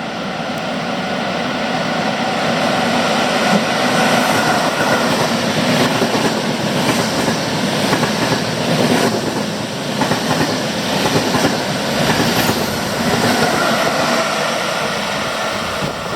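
A train running along the station platform: a steady loud rumble and rush of wheels on rails that builds over the first few seconds, with a faint high tone from the wheels near the start and again near the end.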